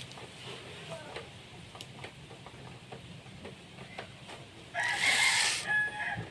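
A rooster crows once, about five seconds in, a harsh call lasting about a second.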